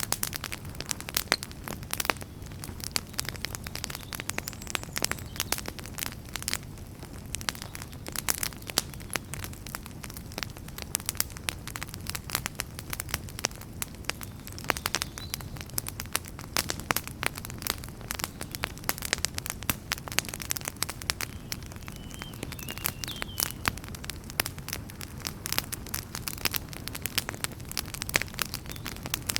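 Wood fire burning in a fireplace, with dense, irregular crackles and pops over a steady low rumble of the flames.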